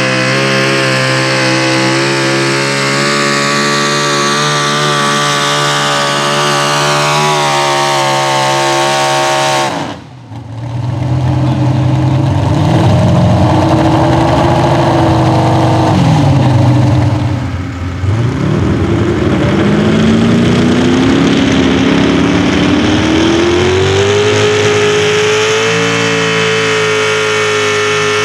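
Engine of a Pro Stock four-wheel-drive pulling truck screaming at high rpm under load. It holds a steady high pitch, drops out sharply about ten seconds in, wavers up and down, dips again briefly, then climbs back to a high steady pitch.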